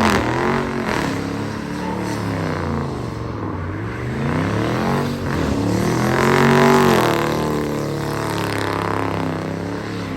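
A car engine revving hard, its pitch climbing and dropping again and again, loudest about six to seven seconds in.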